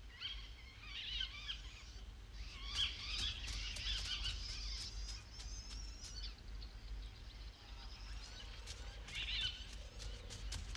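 Small birds chirping and twittering in quick short calls, in clusters, over a steady low rumble.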